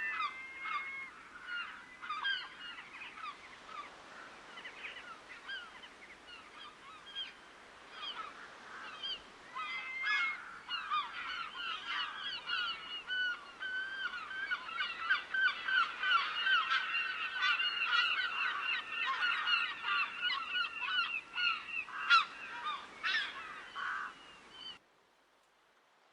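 A flock of water birds calling, many short calls overlapping into a dense chorus that thickens about ten seconds in. It cuts off abruptly near the end.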